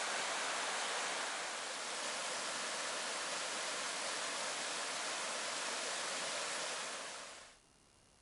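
Steady rushing of running water, an even hiss with little low rumble, that cuts off abruptly about seven and a half seconds in.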